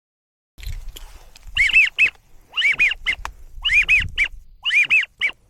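Whistled duck calls, each a group of three short arching notes with the middle one loudest, repeated about once a second, over a low wind rumble on the microphone.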